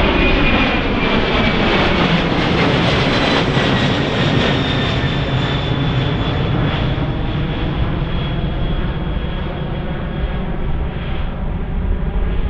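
Jet airliner's engines passing close by: a loud rumble with a high whine that slowly falls in pitch as the sound gradually fades.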